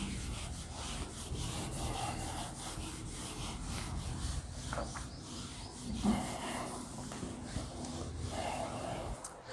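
Continuous rubbing and scraping on a writing board, made up of many small irregular strokes.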